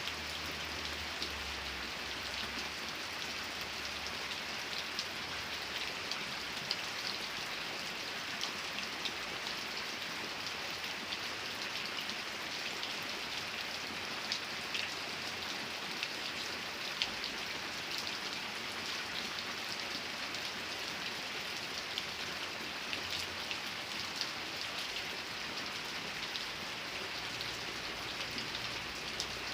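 Steady rain falling, with a dense hiss and many small drop ticks on a surface.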